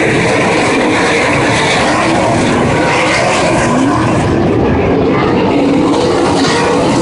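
Sprint cars' V8 engines running at racing speed, loud and continuous, with the engine pitch rising and falling as cars go past.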